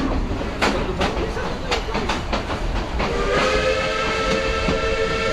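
Passenger train running, with a low rumble and irregular clatter of the cars. About three seconds in, the train's horn sounds one steady chord of several notes for about two and a half seconds.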